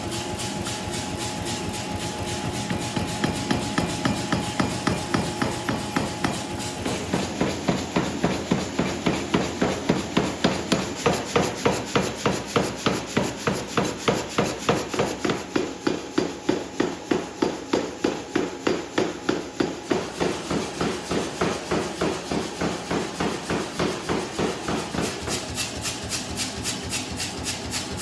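Hammer blows forging hot carbon steel, a steady even run of about two strikes a second that gets louder a few seconds in.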